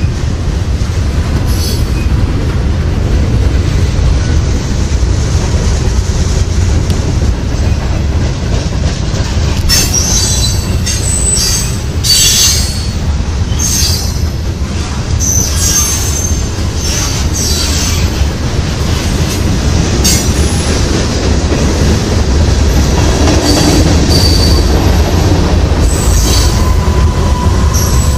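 Freight cars rolling past at close range: a steady low rumble of steel wheels on the rails, with high-pitched wheel squeals coming and going from about ten seconds in and a held squeal near the end.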